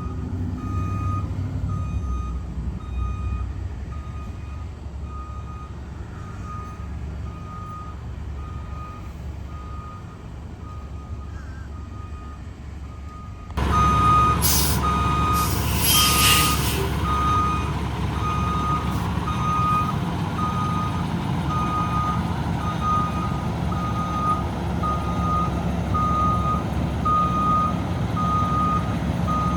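Fire truck backing up: its reversing alarm beeps steadily about once a second over the low running of its engine. Partway through, the beeping and engine get suddenly louder, and a short hiss is heard soon after.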